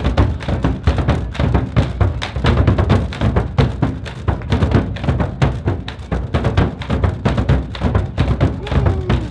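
Music carried by drums, with a fast, dense, steady beat of many strokes.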